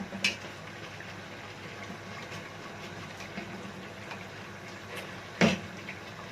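Clinks and knocks of a utensil against a cooking pot as boiled crabs are lifted out of the broth: a sharp knock just after the start and a louder clank about five and a half seconds in, over a steady low hum.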